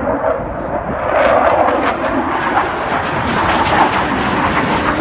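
Jet noise from Blue Angels F/A-18 Hornets flying overhead: a loud, crackling roar that grows louder about a second in and holds.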